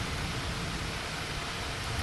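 Steady hiss of rain falling, just after a thunder rumble has died away.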